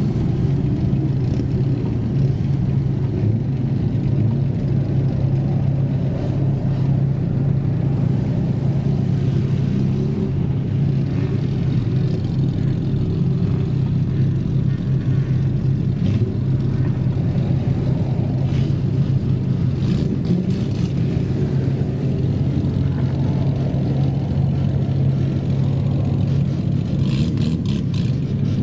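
Modified car exhaust rumbling at a steady engine speed, one deep constant drone with no revving, and a few faint ticks near the end.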